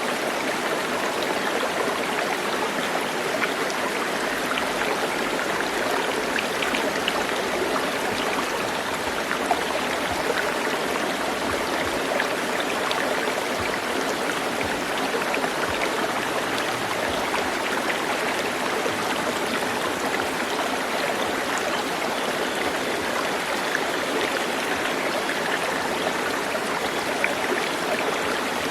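Stream water running steadily, an even rush with small flecks of splashing.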